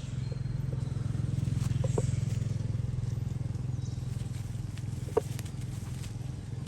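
An engine running steadily with a low, even hum, growing a little louder about two seconds in and easing off after. A few faint short clicks or chirps sound over it, one sharper about five seconds in.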